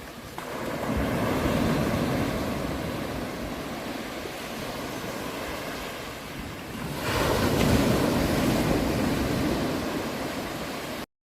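Ocean surf: waves breaking and washing in, with one swell about a second in and another about seven seconds in. The sound cuts off abruptly near the end.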